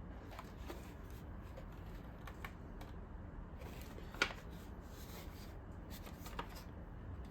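Light plastic clicks and rustling as a Roomba's plastic shell is pried and flexed against its snap-in tabs, with one sharper click about four seconds in.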